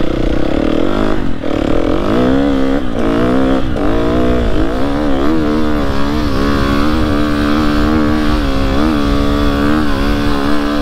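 KTM dirt bike's engine pulling away under load. The revs rise and dip several times in the first few seconds, then hold steady and high.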